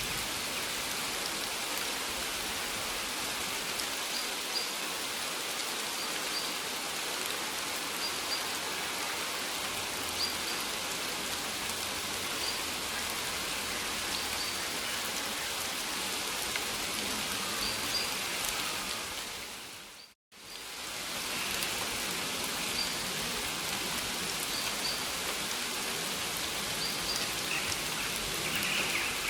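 Steady rain falling, a dense even patter, with faint short high chirps now and then. About two-thirds of the way through the rain fades out to silence for a moment and fades back in.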